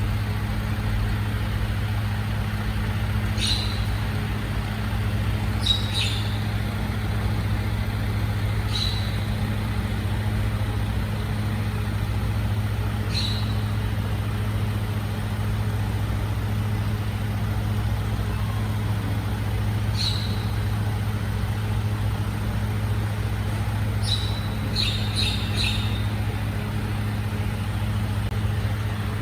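Truck engine idling steadily, with a handful of short, sharp high clicks scattered through it and a quick run of them near the end.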